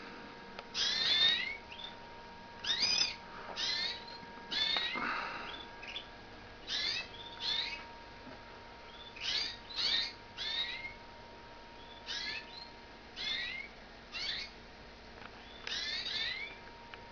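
Canaries, including Giboso Español posture canaries, giving short, high calls that sweep down in pitch, repeated about once a second.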